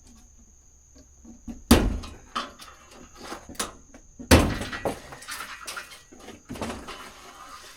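Irregular knocks and clunks of something being handled, with two loud ones about two seconds and four and a half seconds in and lighter clicks between.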